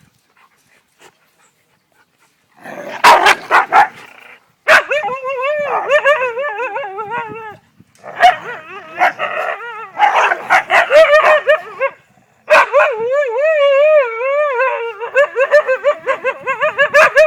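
Sled dogs barking and yipping, then making long wavering whine-howls in several bouts. The sound starts about two and a half seconds in, with short pauses between bouts.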